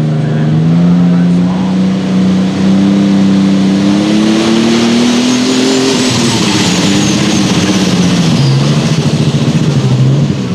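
Case International light super stock pulling tractor's turbocharged diesel engine running flat out under load on the pull. The pitch climbs steadily for about six seconds, then wavers and drops near the end as the pull runs out.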